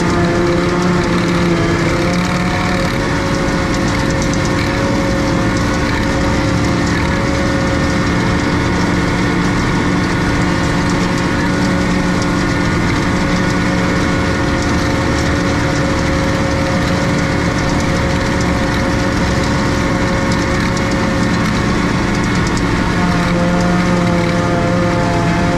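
Tractor engine running steadily, with a slight shift in its note about two seconds in and again near the end.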